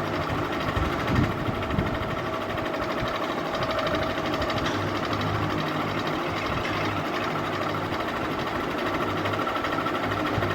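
Ceiling fan running steadily: a motor hum that pulses in a regular rhythm under an even whir of air, with a brief thump about a second in.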